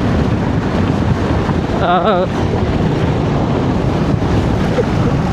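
Heavy wind buffeting the microphone of a motorcycle rider's camera while riding at road speed.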